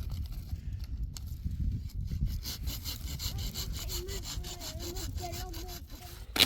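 A saw cutting through wood in rapid, even strokes, with a faint wavering tone through the second half and a sharp knock right at the end.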